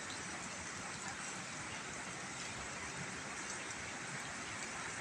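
Heavy rain falling steadily, a constant hiss of rain on surfaces with a few faint drop ticks.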